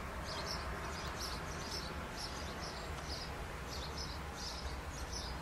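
A bird chirping in short, high notes, a few a second, over a steady low rumble of outdoor background noise.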